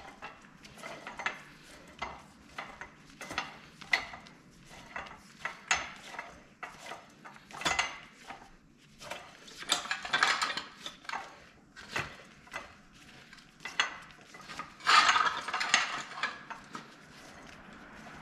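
Hand tools and metal parts clinking and knocking in a string of short, sharp taps, with two longer rattling, scraping stretches, about ten seconds in and again near the end.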